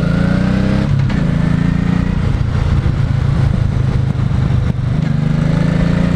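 Motorcycle engine accelerating hard through the gears. The pitch climbs, drops at a gear change about a second in, and climbs again. Midway it is buried under a rush of wind on the helmet mic, then it rises again near the end.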